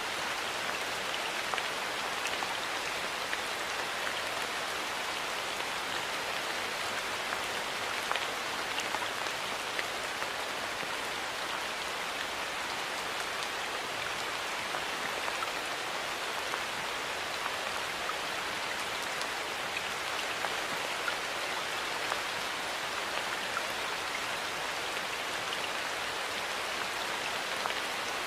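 Steady rain falling, an even hiss of rain on surfaces with many small individual drop ticks scattered through it.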